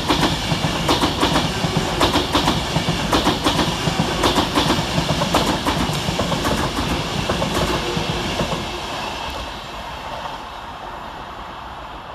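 Avanti West Coast Class 390 Pendolino electric train passing, its wheels clicking over rail joints amid the rush of the coaches. The sound fades after about eight seconds as the train moves away.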